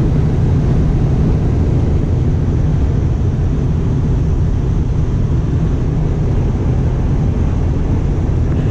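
Steady low road and engine rumble of a diesel vehicle cruising on the highway, heard from inside the cabin.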